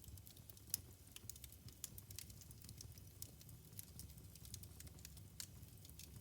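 Wood fire burning in a fireplace, crackling faintly with irregular small pops and one sharper pop about three-quarters of a second in, over a steady low rumble.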